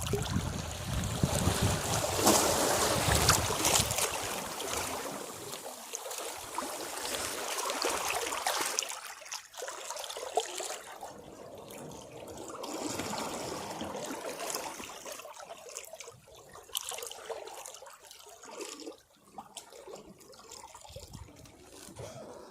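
Sea waves breaking against rocks: a big wash with a low rumble in the first few seconds, then smaller surges and water trickling and gurgling back between the rocks, with scattered splashes.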